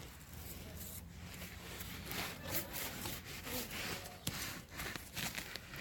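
Irregular scratchy scraping and rustling, with a string of short strokes and a few sharp clicks.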